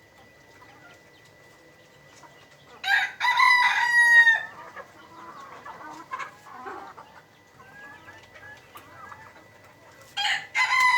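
A rooster crowing: one full crow about three seconds in, ending in a long held note, and another crow starting near the end. Softer clucking from chickens comes in between.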